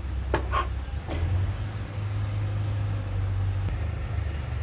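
Low steady motor-like rumble with a few short metallic clicks about half a second in, as engine parts are handled.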